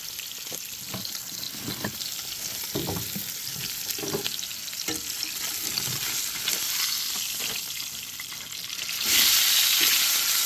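Meat sizzling and crackling in a frying pan, a steady hiss with small pops; the sizzle gets much louder about nine seconds in.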